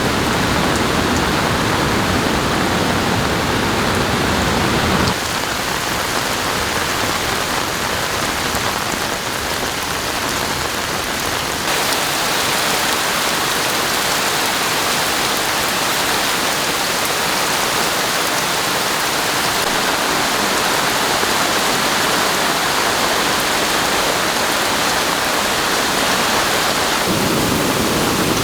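Steady noise of falling water, a dense even hiss that changes character abruptly about five and twelve seconds in.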